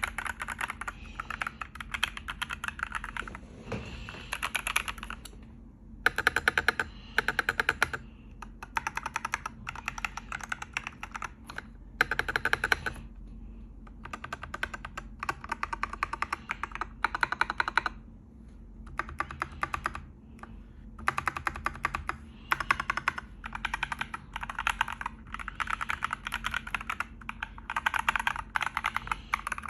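Typing on a stock MG108B three-mode keyboard: fast runs of key clicks in bursts of a second or two, broken by short pauses, with a few louder bursts of heavier keystrokes.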